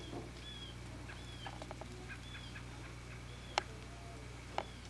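Birds calling: a short arching chirp repeated about once a second, with two sharp ticks in the second half, over a steady low hum.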